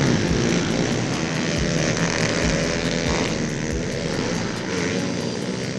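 Small pit bike engines running, a steady mechanical drone with a wavering pitch.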